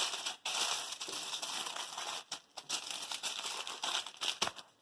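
Aluminium foil being folded and crinkled by hand as it is wrapped around a quesadilla. There is a dense, irregular crackling with a few short pauses between folds.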